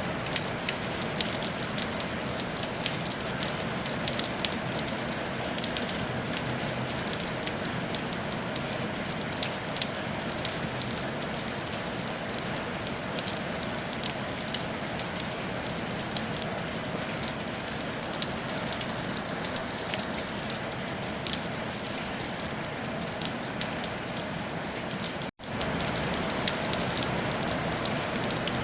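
Steady rain on a tile roof: an even wash of rain with a dense patter of individual drops. The sound cuts out for a split second once, near the end.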